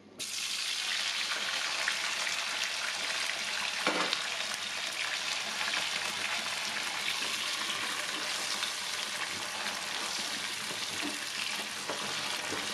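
Chilies, tomato, shallots and garlic sizzling steadily in hot oil in a nonstick frying pan, with a single knock about four seconds in and a spatula stirring the pan near the end.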